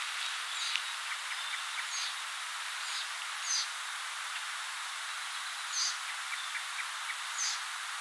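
Short, high bird chirps, about six of them one to two seconds apart, over a steady outdoor hiss, with a few faint soft ticks in between.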